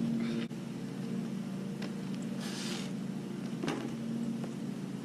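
A steady low mechanical hum, with a few faint clicks and a brief hiss a little past halfway.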